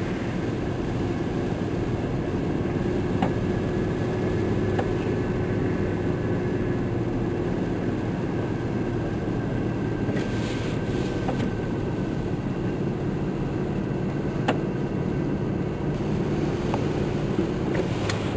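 Steady drone of a car engine and tyres heard from inside the cabin while driving, with a few faint clicks and a brief rattle about two-thirds of the way through.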